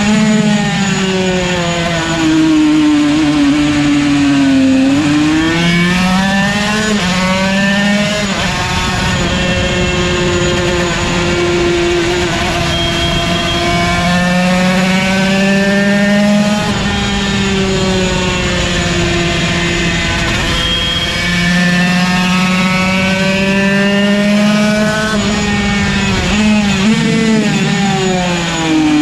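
Yamaha TZ125's 125cc single-cylinder two-stroke racing engine at high revs. It winds up through the gears and drops in pitch at each shift, falls away about four seconds in and again near the end as the bike slows, then climbs hard again.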